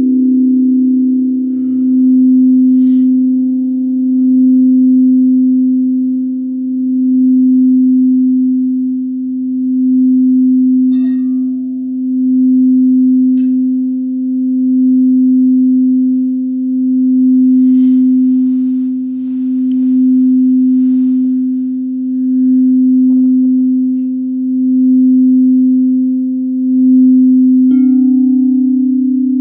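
A singing bowl sung by rubbing its rim: one low, steady tone that swells and fades about every two seconds. Near the end a light knock brings in a second, slightly higher tone alongside it.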